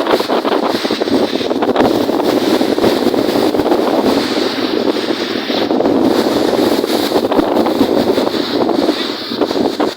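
Strong wind blowing across the microphone over lake waves, a loud, steady, dense rush with no break.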